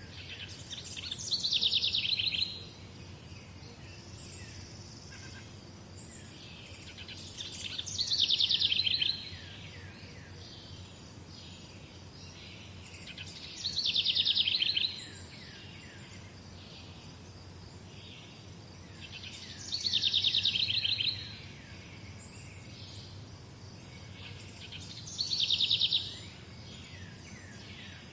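A songbird repeating the same short song five times, about every six seconds: each a quick run of high, falling notes that speeds up into a fast trill, about a second and a half long. A steady low rumble of background noise runs underneath.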